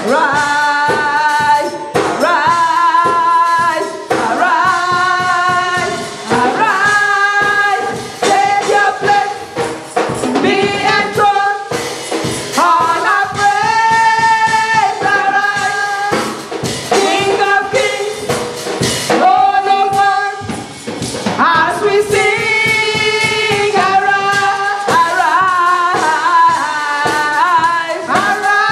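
Church choir singing a gospel worship song, with tambourine and drums keeping a steady beat.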